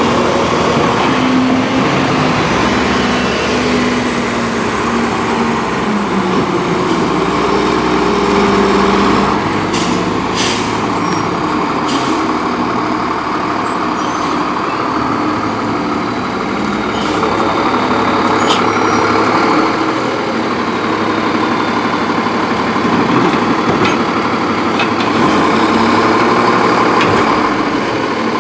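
Freightliner Condor garbage truck with an Amrep MSL side-loader body: its diesel engine runs steadily, with a few sharp clanks and air-brake hisses in the middle.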